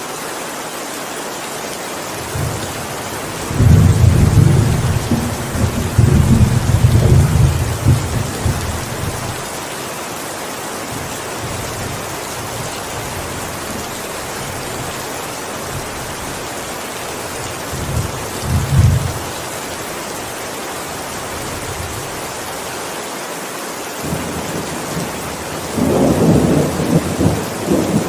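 Heavy rain falling steadily, with rolls of thunder. A long low rumble begins about four seconds in and lasts several seconds, a short one comes near the middle, and another builds near the end.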